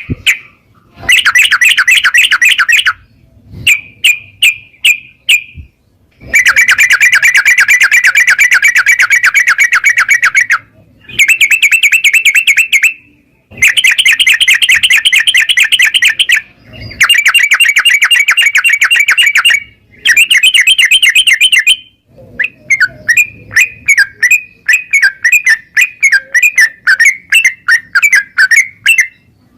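Yellow-vented bulbul (trucukan) singing loudly in rapid rolling phrases. Each phrase is a fast run of repeated chirping notes lasting a few seconds, with short pauses between. In the last several seconds the notes come looser and choppier.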